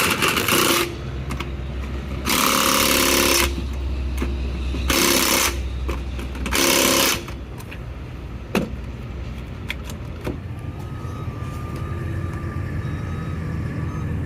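Power tool run in four short bursts while working on the van's fasteners, over a steady low hum, with a single sharp click about two-thirds of the way through.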